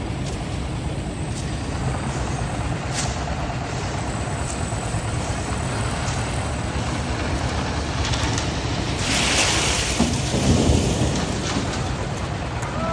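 Heavy diesel construction machinery running steadily with a low rumble, with a loud hiss about nine seconds in.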